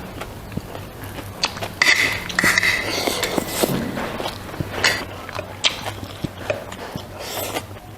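Close-miked eating: biting and chewing with sharp clicks and crunches, busiest a couple of seconds in, over a low steady hum.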